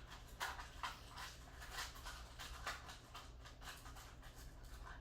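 Faint, irregular small clicks and rattles, several a second, of .22 caliber powder loads (number 4 strength) being handled as one is taken from the box, over a low steady hum.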